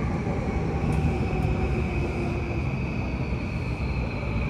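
JR Yamanote Line electric train in motion: a steady low rumble of wheels on rails with a high, steady whine, and a fainter tone sliding slowly down in pitch.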